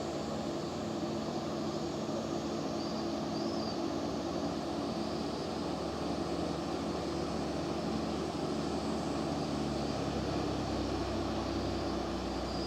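Small passenger ferry boat's engine running steadily, with a deeper low rumble coming in about ten seconds in.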